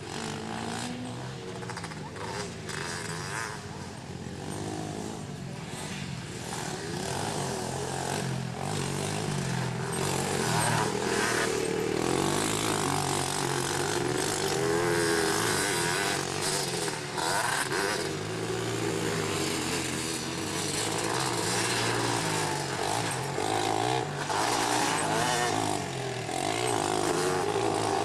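Engines of racing ATVs, junior quads and a three-wheeler, revving up and down as they ride the motocross track. They get louder from about ten seconds in, as the machines come closer.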